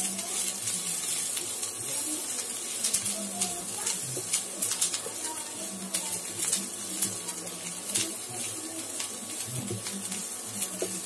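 Chopped onions frying in oil in a nonstick pan, with a steady sizzle, while a wooden spatula stirs them and scrapes the pan in irregular short strokes.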